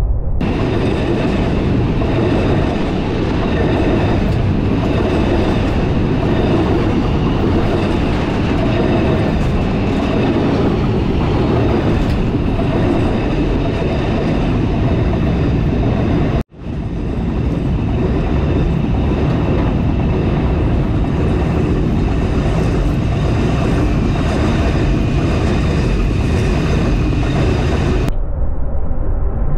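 Freight train passing at speed, a loud, steady rush of wagons and wheels running on the rails. The sound cuts out abruptly for a moment a little past the middle, then comes straight back.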